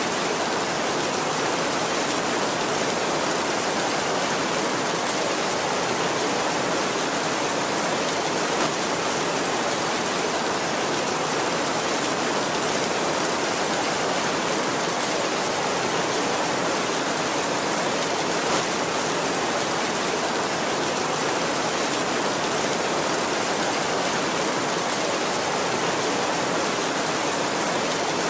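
Heavy rain falling steadily on a tin roof, an even, unbroken hiss.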